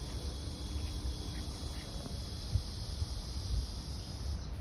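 Steady chirring of insects, with a low rumble underneath; the chirring stops just before the end.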